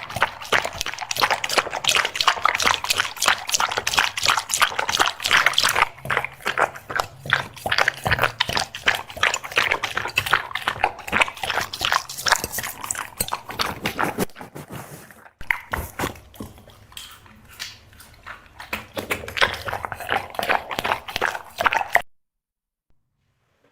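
Black Labrador chewing food noisily, with rapid wet smacking and crunching. It cuts off to silence near the end.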